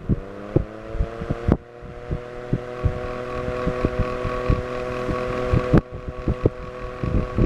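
Vintage Vornado table fan's two-speed motor and 6-inch steel blades running on high speed: a hum of several steady tones that is still rising in pitch for the first second or so as the fan comes up to speed, then holds steady. Irregular low thumps sound throughout.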